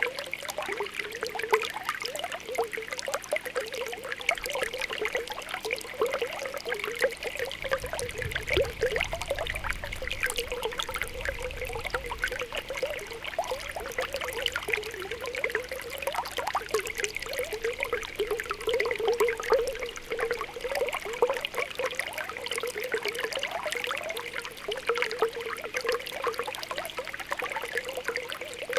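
Spring water welling up from the ground, bubbling and popping in a rapid, continuous patter of small plops.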